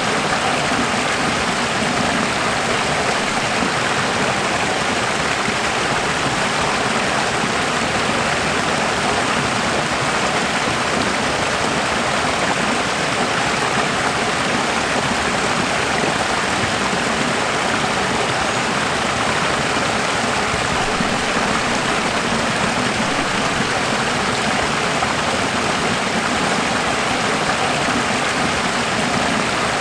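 Running water, a steady, even rush like a stream flowing, unchanging throughout.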